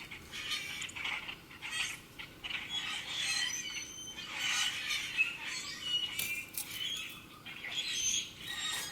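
Several wild birds chirping and calling together, many short high calls overlapping one another without a break.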